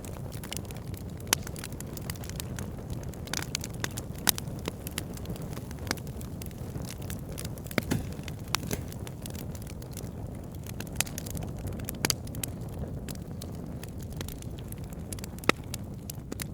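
Logs burning in a wood fire: a steady low rumble of flames with frequent, irregular crackles and a few louder pops.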